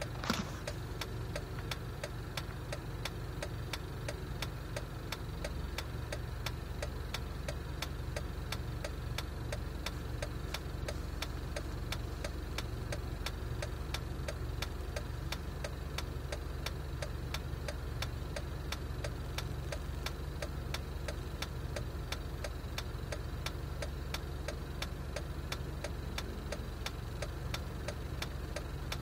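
Jeep engine idling roughly, with an even, regular ticking running through the idle. A sharp click sounds just after the start, and the deep rumble gets fuller about five seconds in.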